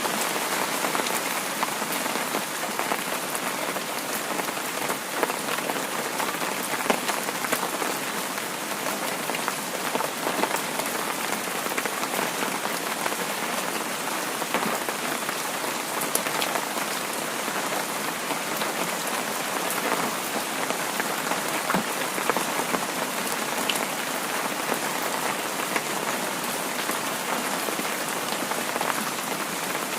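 Heavy rain falling steadily, a dense hiss with many small drop ticks spattering through it.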